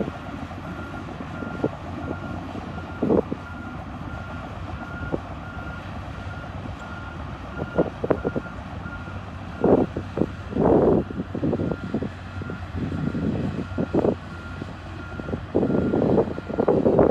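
Bulldozer engine running with its reversing alarm beeping about twice a second, over irregular clanks and scraping bursts that are loudest about ten seconds in and near the end.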